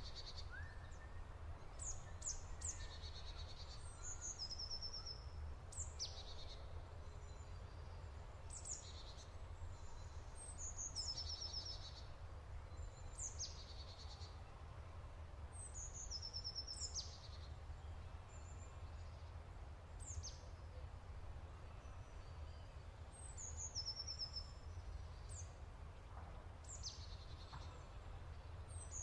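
Birdsong: a high phrase repeats every few seconds, a quick downward-sweeping whistle followed by a short run of stepped notes, over a steady low rumble.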